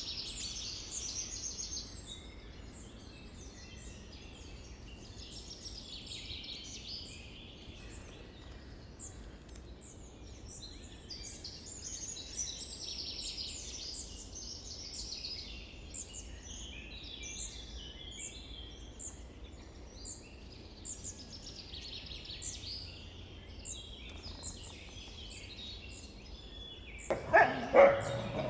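Birds chirping in a steady high chorus for most of the time. Near the end, dog barking breaks in, much louder, with several barks in quick succession.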